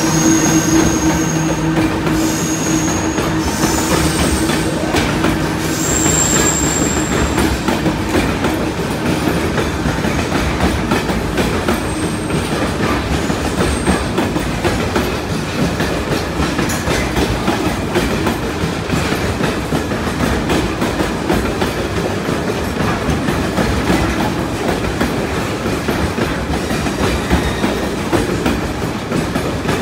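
Diesel freight locomotive passing close by, its engine humming steadily, with a few brief high-pitched wheel squeals in the first seven seconds. The hum fades after about eight seconds, leaving a steady rumble and clatter of loaded container wagons rolling past on the rails.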